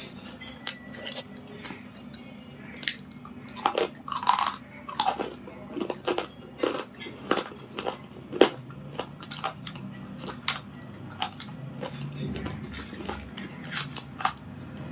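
Close-up biting and chewing of a hard, dry slate pencil: a run of irregular sharp crunches and snaps. They come thickest from about four seconds in, peak in one loud snap just past the middle, and then slow to sparser chewing crunches.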